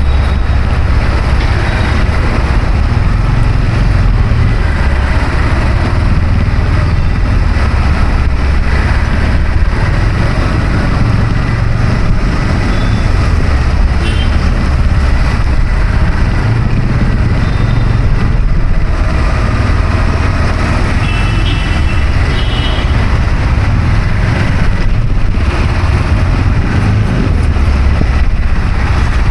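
Steady road traffic noise dominated by a heavy low rumble, with a few brief, faint high tones about two-thirds of the way through.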